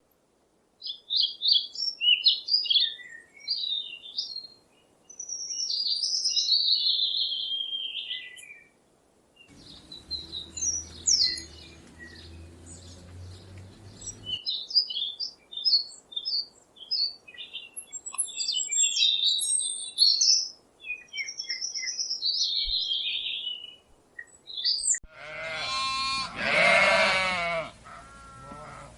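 Songbirds chirping and twittering in quick, high phrases, with a low hum underneath for a few seconds in the middle. Near the end, a loud bleat from a sheep or goat takes over.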